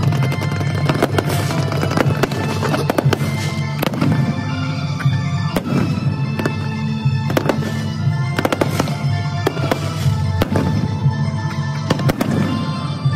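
Fireworks shells bursting in rapid, irregular bangs and crackles over music.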